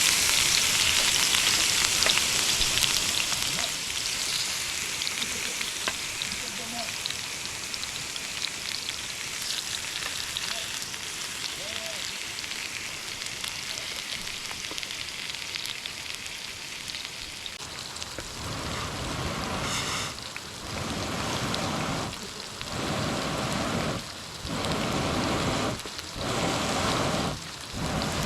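Food sizzling in a pan, the hiss fading over the first few seconds into steady heavy rain. Near the end the noise comes in louder surges every second or two.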